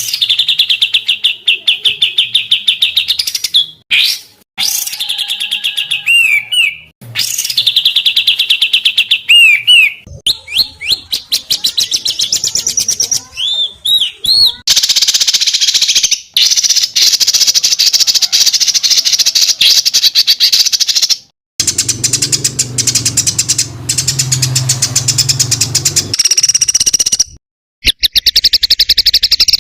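Songbird song spliced from several recordings: fast, dense trills and harsh chattering phrases, the rapid 'tembakan' type used as tutor song. It cuts abruptly from one recording to the next every few seconds.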